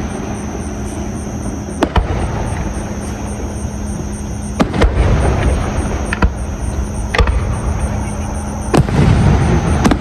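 Fireworks going off: sharp bangs every second or two, some in quick pairs, over a continuous low rumble, with a denser crackling burst near the end.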